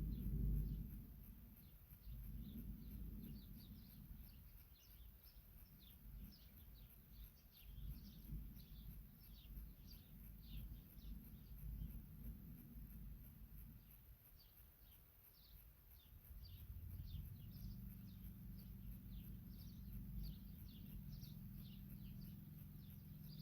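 A quick run of short, high chirps, each falling in pitch, several a second, coming in two long stretches over a low rumble. Near the end a steady low hum joins in.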